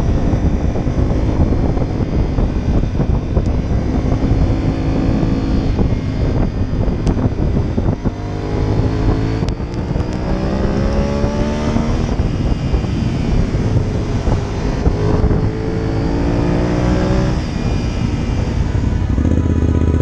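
Honda RC51 SP1's V-twin engine under way, its pitch climbing in repeated sweeps as it accelerates through the gears, over heavy wind buffeting on the bike-mounted microphone.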